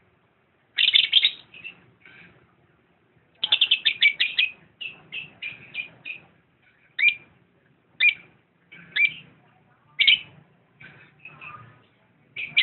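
Lovebird chirping: a quick burst of high chirps about a second in, a fast run of chirps about three and a half seconds in, then single sharp chirps roughly once a second to the end.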